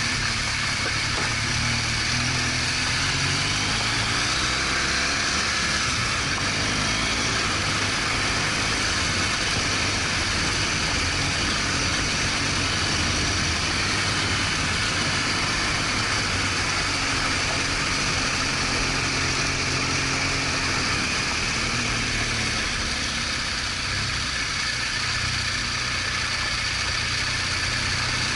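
BMW R1200GS Adventure's flat-twin boxer engine running as the motorcycle rides on, its pitch rising and falling with the throttle, over a steady hiss of wind and road noise.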